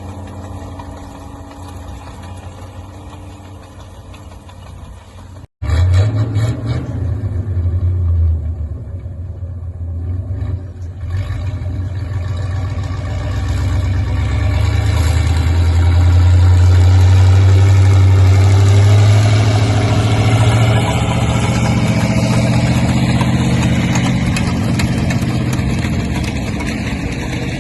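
Linn tractor's engine running, freshly started after sitting a year. About five and a half seconds in the sound breaks off abruptly and comes back much louder, a steady low engine drone that swells and then eases off toward the end.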